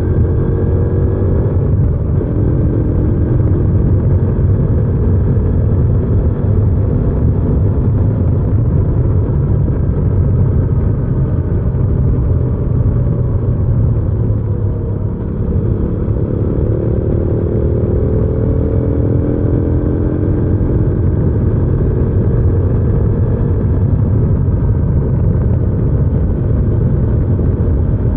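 Hyosung GV300S Aquila 300 Supreme's V-twin engine running steadily under way, the motorcycle's own exhaust close by. The engine pitch climbs near the start, the sound dips briefly about halfway through, and then the pitch climbs again as the bike accelerates.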